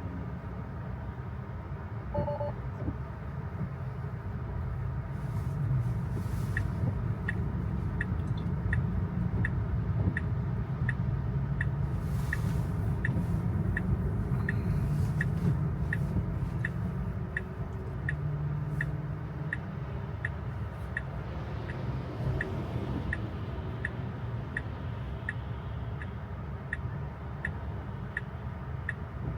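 Steady road and tyre rumble of a Tesla inside the cabin on a wet road. A turn-signal indicator starts ticking about six seconds in and keeps an even beat of about one and a half ticks a second. A short two-note chime sounds about two seconds in, and a couple of brief hissing swishes come around the middle.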